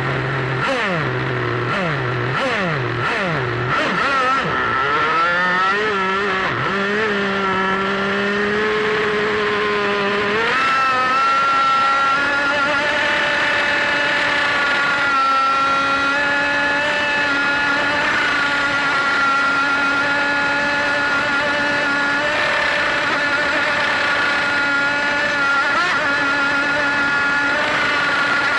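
Motor of a radio-controlled outrigger boat, heard from on board: a few quick revs in the first seconds, then the pitch climbs and holds, steps up again about ten seconds in and stays steady as the boat runs at speed.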